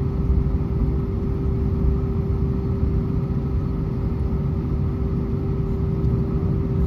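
Airbus A320 cabin noise on the ground with the engines at idle: a steady low rumble with a constant mid-pitched hum.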